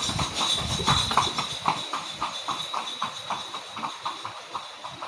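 Wind buffeting the microphone with a low rumble, under a rapid, even clip-clop of about four knocks a second that fades away toward the end, and a thin steady high tone.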